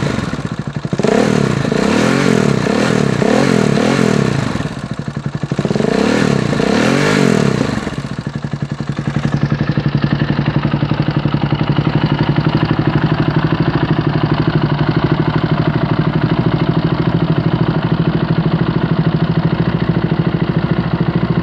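KTM 690 SMR's single-cylinder LC4 engine breathing through a complete Huzar aftermarket exhaust, revved repeatedly in quick blips for about eight seconds, then dropping to a steady idle.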